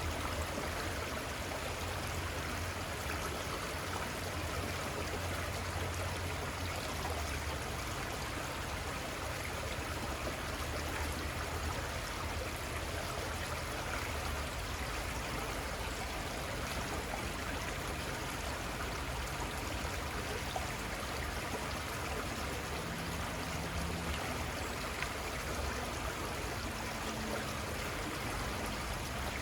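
Little Conestoga River flowing: a steady, even rush of moving stream water.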